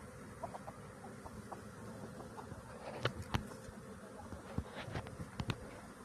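Swarm of honeybees buzzing steadily, with scattered short sharp taps and knocks, most of them between about three and five and a half seconds in.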